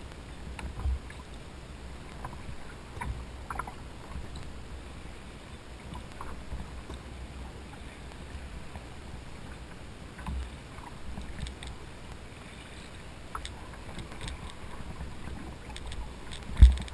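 Fishing kayak on open water, with a steady low rumble, scattered light clicks and knocks from the hull and gear, and one loud thump near the end.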